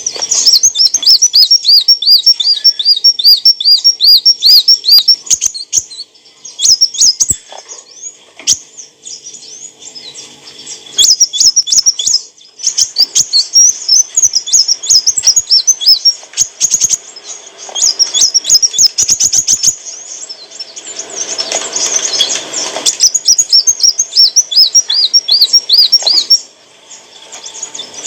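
A kolibri wulung sunbird singing: fast runs of high, sharply repeated chirping notes mixed with dry clicks, broken by a quieter spell about six seconds in. A short rustling noise comes about three quarters of the way through.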